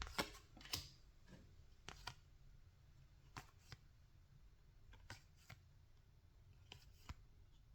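Faint, irregular clicks and slides of Topps baseball trading cards being handled and flipped through one at a time.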